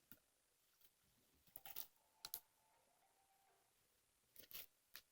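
Slime being played with by hand: a few faint sticky clicks and small pops in short clusters, around two seconds in and again near the end.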